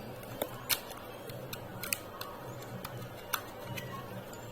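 A few scattered light clicks and ticks from handling the iron's power cord as its two wires are separated, over a low steady hum.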